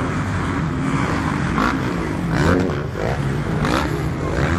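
Motocross bikes' engines running, revving up in rising bursts about two and a half and three and a half seconds in.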